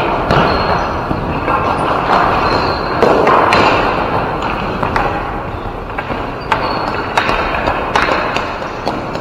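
Ball hockey play: irregular sharp clacks and knocks of sticks and ball, with occasional thuds, over a steady hubbub.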